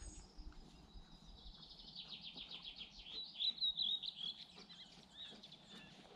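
A songbird singing: a fast trill of high notes, then warbling chirps, about two to four seconds in.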